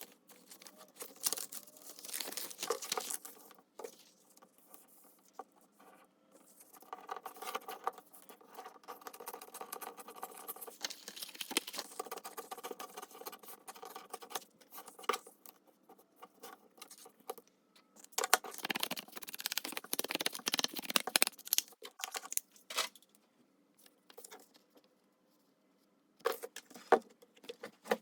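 Paper and craft materials being handled at a desk: irregular rustling, light tapping and crinkling, with a denser, louder stretch of rustling about two-thirds of the way through.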